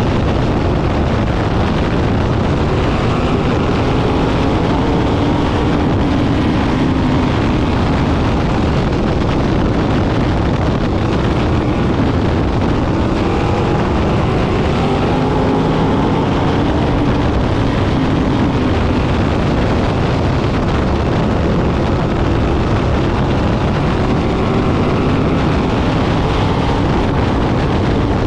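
Pavement sprint cars' V8 engines racing around the track: a loud, unbroken drone from several cars at once, with engine notes that slowly rise and fall as cars pass and drop back. Some wind noise on the microphone.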